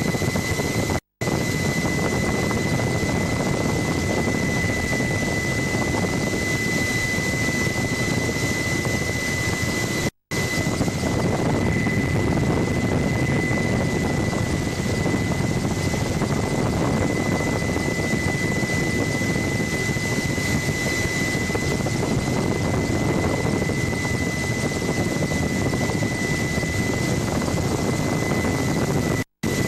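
Helicopter running in steady flight, heard from aboard: a constant rumble with a steady high whine over it. The sound cuts out completely for an instant three times, about a second in, about ten seconds in and just before the end.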